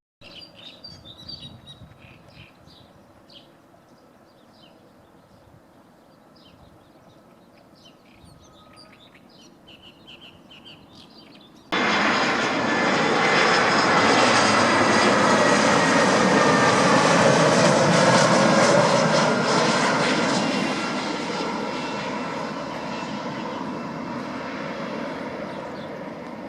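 Birds chirping faintly, then, cutting in abruptly about twelve seconds in, a loud aircraft flying past on its landing approach. Its engine noise has a slowly falling pitch, swells to a peak and then fades as it moves away.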